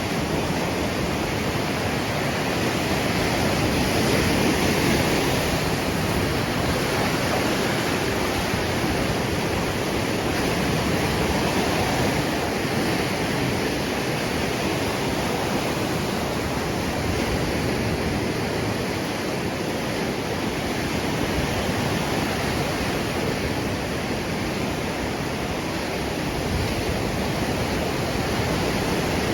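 Sea surf washing onto a gently sloping sand beach, a steady rushing wash that swells slightly and eases, with a little wind on the microphone.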